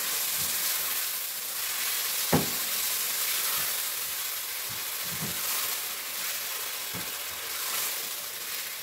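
Boneless chicken pieces and blended tomatoes sizzling in a nonstick frying pan as a silicone spatula stirs them. The spatula knocks against the pan a few times, sharpest about two and a half seconds in.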